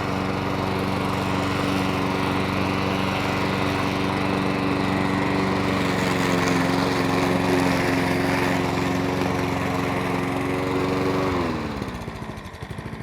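Petrol lawn mower engine running steadily, then shut off about eleven seconds in, its pitch falling and the beat slowing as it coasts to a stop.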